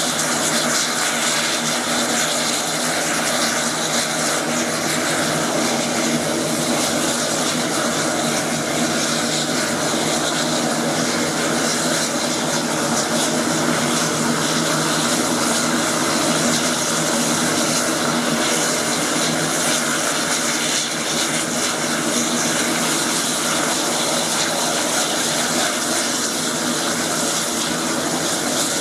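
Air Tractor 802 agricultural plane's turboprop engine and propeller running steadily, an even, continuous drone with a few steady tones and no change in pitch or level.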